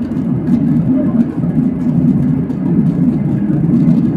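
Steady low cabin noise inside a Boeing 737-800: its CFM56-7B turbofan engines and the airflow past the fuselage, heard from a seat near the wing.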